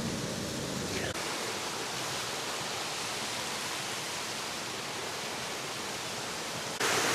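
Steady rushing of water falling over a small rocky waterfall, changing abruptly about a second in and stepping louder near the end.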